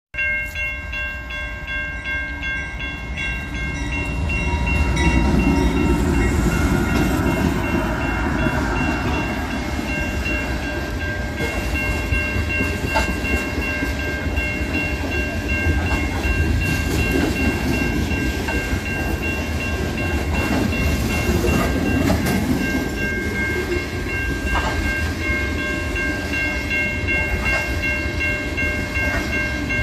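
Freight train of hopper cars rolling past: steady low rumble and clatter of wheels on rail, swelling about five seconds in. Over it, a steady high ringing of several tones, typical of a level-crossing bell.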